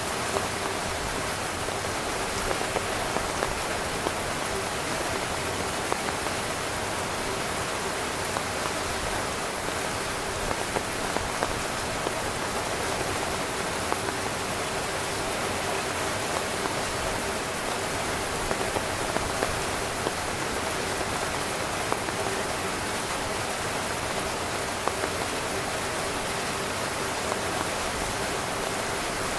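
Heavy rain falling on tent fabric, a steady hiss of rain with many individual drops pattering on the canvas.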